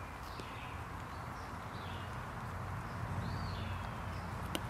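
Small birds chirping now and then, one call arching up and down a little past the middle, over a steady low background hum. A single sharp click near the end.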